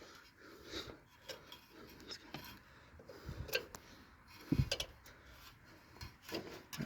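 Scattered light metallic clicks and taps of hands fiddling with a carburetor's choke linkage and spring, with a couple of duller knocks around the middle.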